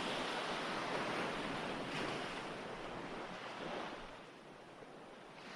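Recorded ocean waves washing on a shore, a steady surf that swells and ebbs and eases off about four seconds in.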